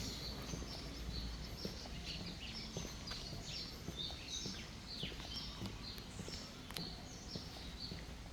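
Small birds chirping: many short, quick chirps one after another over a steady low background hum.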